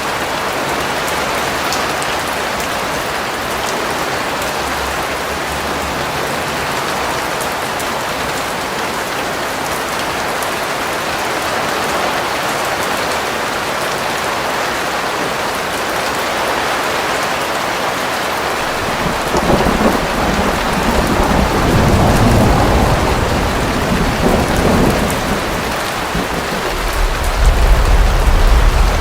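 Steady heavy rain, with a low roll of thunder rumbling in about two-thirds of the way through and swelling again near the end.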